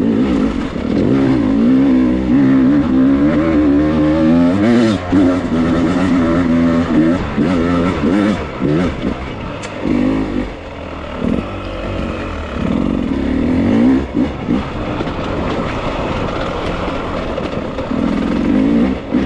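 Beta dirt bike engine being ridden over rough ground, its pitch rising and falling as the throttle is worked on and off, with a few sharp knocks along the way.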